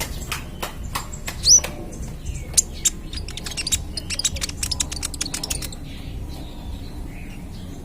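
A young kolibri ninja sunbird singing in fast bursts of sharp, high chips, with a quick rising whistle about a second and a half in. The calls thin out near the end, over a steady low hum.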